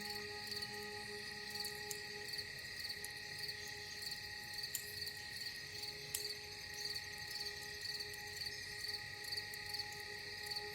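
Crickets chirping in a steady, even rhythm, over soft sustained ambient-music tones; a low note fades out about two seconds in.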